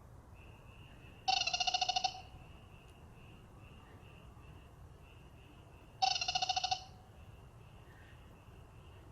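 Male dark-spotted frog calling twice, about five seconds apart: each call a loud quick train of pulses lasting under a second. A faint, steady, high-pitched pulsing call from other frogs runs behind.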